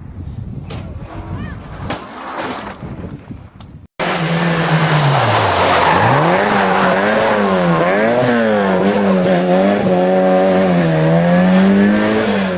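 About four seconds in, a car engine starts revving loudly, its pitch rising and falling over and over, with tyre squeal beneath it. Before that comes a stretch of mixed road noise with a few knocks.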